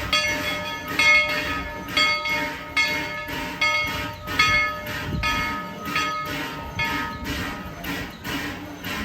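Steam locomotive's bell ringing steadily as it swings, a strike with a ringing tail a little over once a second.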